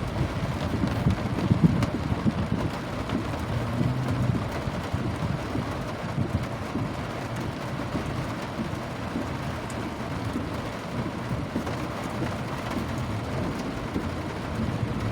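Steady rain, with a low rumble underneath that is a little stronger in the first couple of seconds and then evens out.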